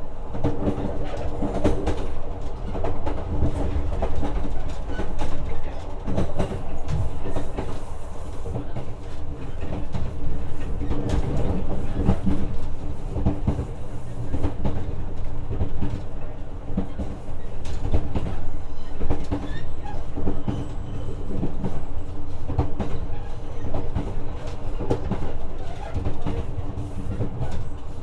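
JR West 125 series electric railcar running along the line, heard inside the car: a steady rumble of wheels on rail with scattered clicks over rail joints and a steady multi-tone hum.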